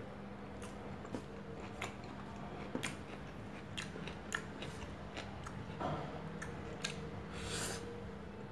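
Close-up mouth sounds of eating rice by hand: chewing and lip-smacking, with scattered sharp clicks and a brief hiss near the end. A low steady hum runs underneath.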